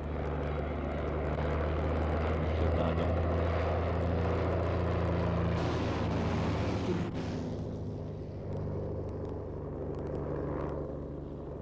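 Piston engine of a vintage propeller aircraft running steadily, easing off in level after about seven seconds.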